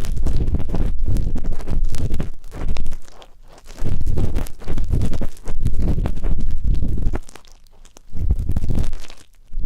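Ear pick scraping and rubbing inside a microphone's ear: scratchy strokes with a deep rumble, each lasting a second or two, with brief pauses about three seconds in and again near the end.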